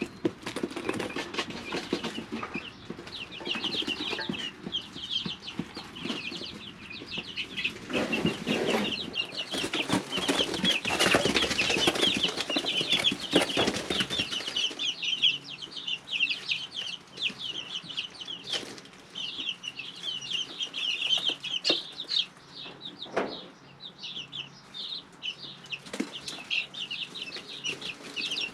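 Three-week-old chicks peeping constantly in a brooder. A louder stretch of rustling and wing-flapping runs from about eight to fourteen seconds in, and scattered sharp taps follow.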